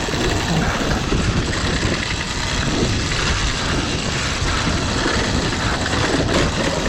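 Yamaha WR450 dirt bike coasting over a rough dirt track with its engine switched off: a steady clatter and rumble of knobbly tyres, chain and suspension, which the rider calls horrible-sounding.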